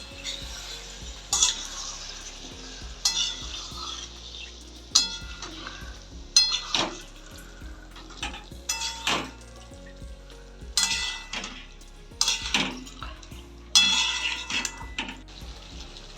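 A cooking utensil stirring chicken curry in a pan, scraping and clanking against the pan about eight times, every second and a half to two seconds, with the chicken frying in mustard oil underneath.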